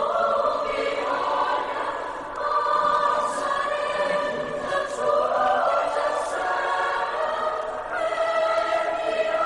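Choir of voices singing sustained chords, with notes held and shifting slowly in pitch.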